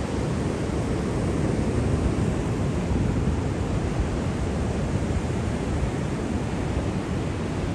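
Sea waves: a steady, even rush of surf with most of its weight in the low end and no single wave breaking out above the rest.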